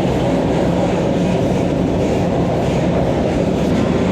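Vande Bharat electric train set running at high speed, a steady rumble of wheels on the track as it accelerates after a junction.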